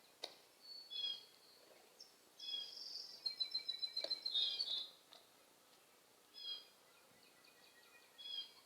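Blue jay giving short, repeated calls, with a louder run of rapid calls in the middle, typical of a hungry bird begging for food.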